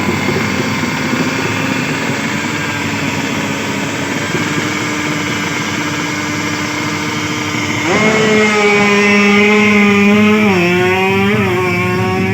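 Drag-race motorcycle engine running at a steady speed that creeps slowly up. About eight seconds in it jumps to a higher, louder pitch, then wavers up and down near the end.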